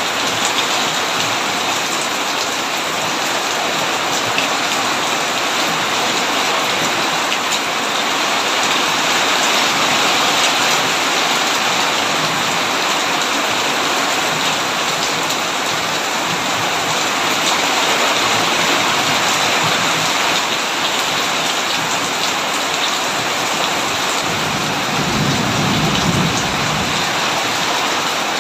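Heavy rain falling steadily on a tin roof, with a short low rumble of thunder near the end.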